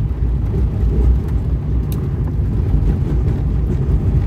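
Vehicle driving down a rough dirt mountain track: a steady low rumble of engine and tyres, with a faint tick about two seconds in.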